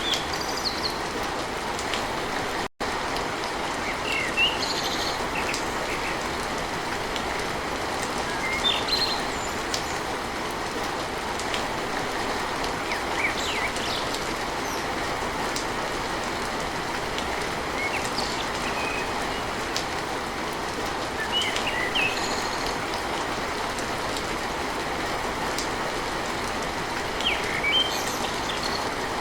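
Steady heavy rain drumming on a tin roof, with birds chirping briefly every few seconds. The sound drops out for a split second about three seconds in.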